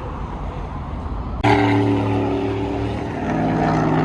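Car engines at a meet: a low rumble, then about a second and a half in a loud engine note cuts in abruptly at steady revs, its pitch shifting higher about three seconds in, as a car does a flyby.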